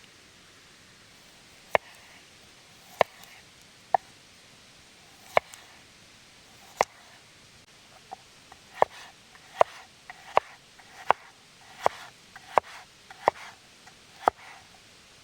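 A series of sharp knocks with a short ring, spaced about a second apart at first and coming faster and closer together in the second half.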